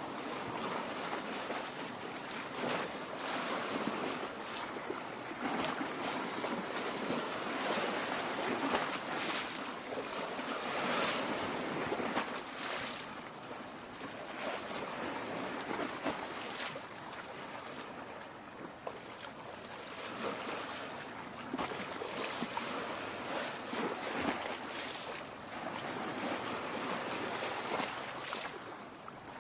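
Lake water lapping at the shore, a steady wash of small waves that swells and eases every few seconds.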